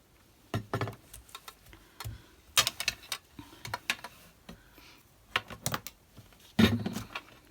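Irregular clicks and knocks of small hard objects handled and set down on a craft desk, with louder knocks about half a second in, two and a half seconds in and near the end.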